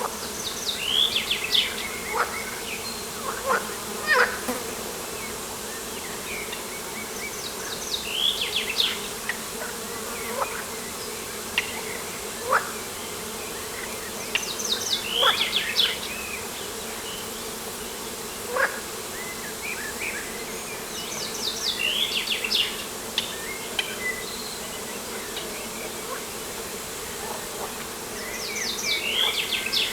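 A songbird singing the same short phrase of quick high notes about every seven seconds, with single sharp chirps in between, over a steady low hum like buzzing insects.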